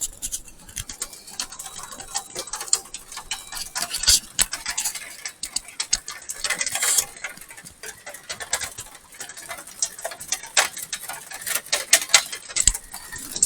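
Hailstones striking the ground and nearby surfaces: a dense, irregular patter of sharp ticks and clicks, some louder than others.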